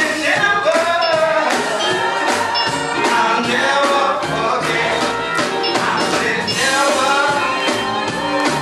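Live gospel music: singers with a band over a steady beat, in a large room.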